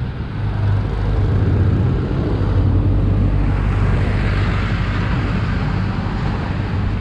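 Steady wind and road noise on an action camera's microphone while cycling along a road, with traffic mixed in.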